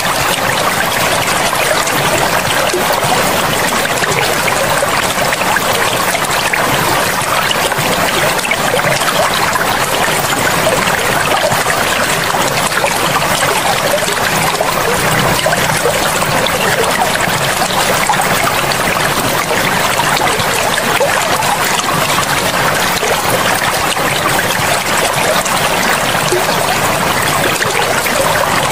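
Forest river flowing, a steady, even rush and trickle of water.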